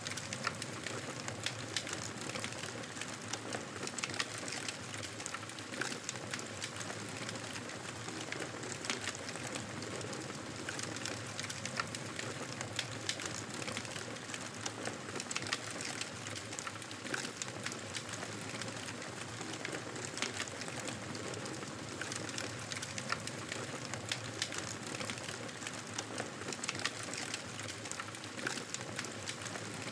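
Campfire burning: wood crackling with frequent small, sharp pops at irregular intervals over a steady hiss of flames.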